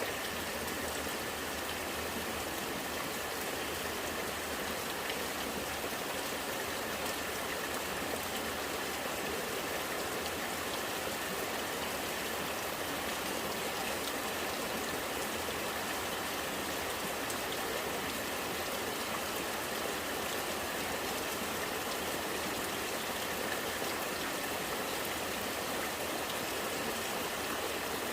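Rainwater running and gurgling steadily, with rain falling.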